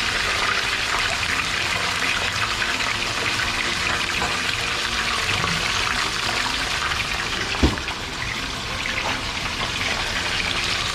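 Fish frying in hot oil on high heat, a steady sizzle, with a single sharp knock about two-thirds of the way through.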